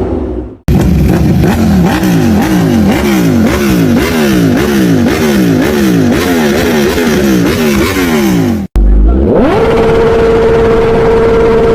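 Sport motorcycle engines being revved hard in quick succession. First one bike's throttle is blipped over and over, the revs climbing and dropping about twice a second; then, after a short break, another engine is revved up quickly and held at a steady high rpm.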